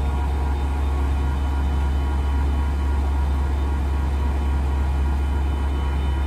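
Heavy truck's diesel engine running steadily with a constant low drone.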